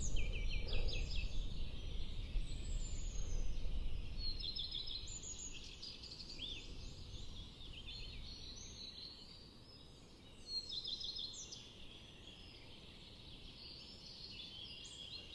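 Several songbirds chirping and trilling in quick repeated phrases, over a low rumble that is strongest in the first few seconds and then dies away.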